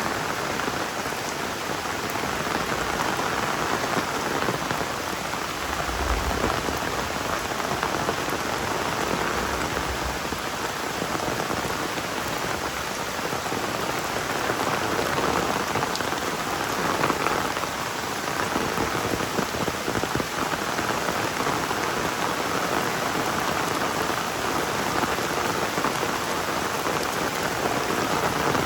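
Heavy rain falling steadily, a dense, even patter, with a couple of brief low rumbles early on.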